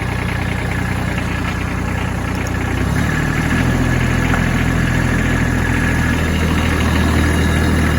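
Kubota B2601 compact tractor's three-cylinder diesel engine running in the cold. About three seconds in, its note changes and it gets a little louder, then runs steadily.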